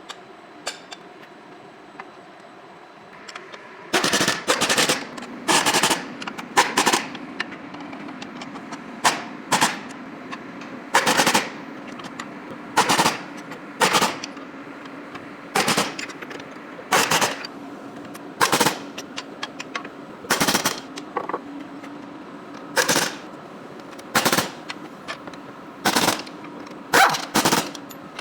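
Pneumatic impact wrench rattling in short bursts, from about four seconds in, roughly every one to two seconds, over a steady mechanical hum.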